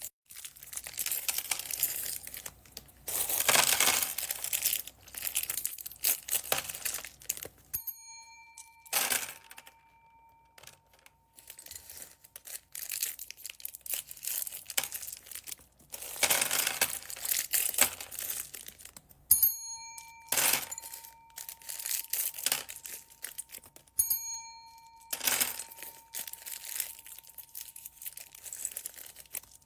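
Plastic packaging bags crinkling and rustling as they are handled, in repeated bursts. Three times a clear bell-like ding sounds and rings on for a few seconds.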